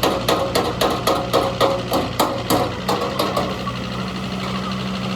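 Rapid, evenly spaced hammer blows on metal, about four a second, stopping about three and a half seconds in, over a steady machine hum.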